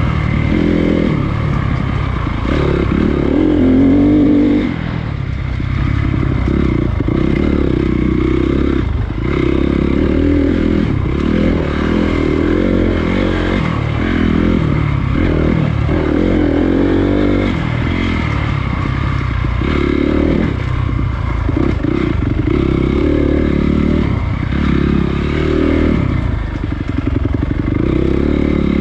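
Honda CRF250 dirt bike's single-cylinder four-stroke engine, on and off the throttle, its pitch rising and falling many times.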